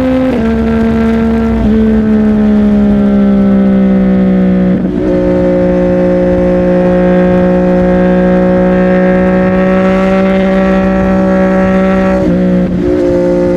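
CFMOTO 675NK three-cylinder engine running through a Burnout titanium aftermarket exhaust while riding at steady moderate revs. Its pitch steps down near the start, at about two and five seconds, and again near the end as the rider changes gear.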